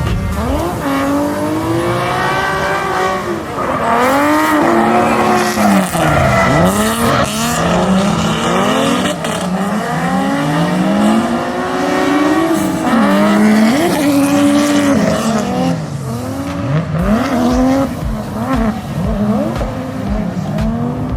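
Drift car's engine revving hard, its pitch rising and falling over and over, over tyre squeal as the car slides.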